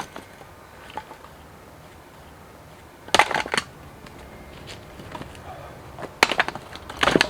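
Firewood being processed: bunches of sharp wooden knocks and clatter, one about a second in, a louder bunch about three seconds in, and two more near the end.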